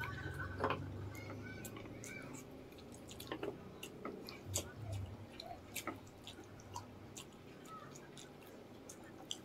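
Wet chewing and lip-smacking from people eating saucy chicken feet adobo and rice by hand: many short, irregular clicks.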